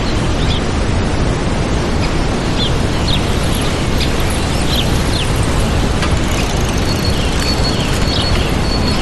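Waterfall's steady rush of water, with small birds chirping over it in short, high calls and one held high whistle near the end.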